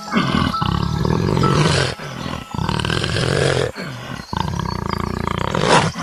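Big cat growling and roaring in a run of rough, low calls, about five in a row with short breaks between them.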